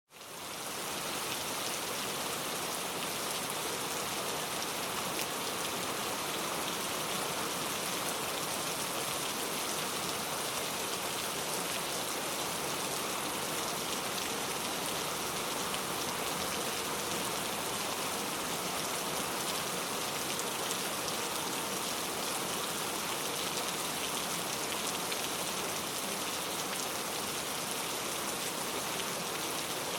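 Heavy rain falling on a leaf-covered road, a steady, even patter. It fades in within the first second.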